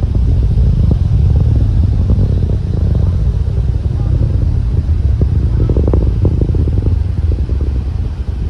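Rocket engines of a launch heard from many miles away: a deep, continuous rumble with irregular crackling pops, the crackle thickest about six seconds in.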